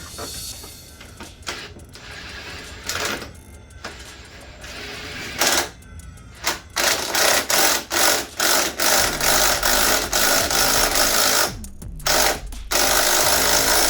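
Hand-tool work on the mini bike's wheel hardware: a run of short rattling mechanical bursts, a few scattered at first, then coming quickly one after another from about five seconds in.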